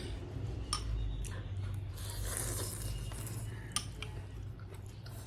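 Eating at a table: a couple of sharp clinks of cutlery against a dish, with soft wet eating noises between them.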